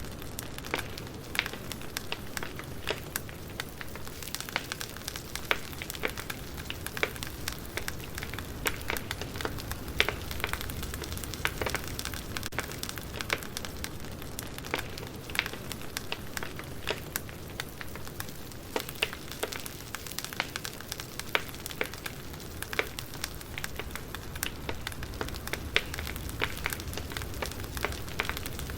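Burning firewood crackling, with many irregular sharp pops and snaps over a steady low rumble of the fire.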